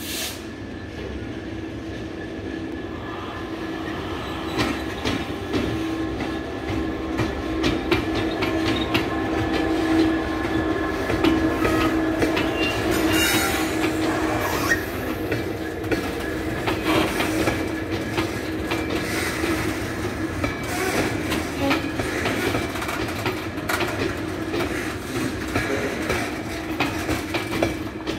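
GBRf Class 66 diesel-electric freight locomotive, its EMD two-stroke V12 engine running as it passes, loudest around ten to twelve seconds in. A rake of engineers' open wagons then runs by, wheels clicking over the rail joints.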